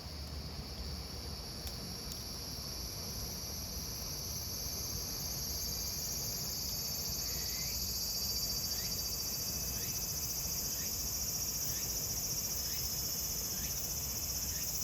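A chorus of summer cicadas buzzing steadily and growing gradually louder. From about halfway through, faint short chirps repeat about once a second.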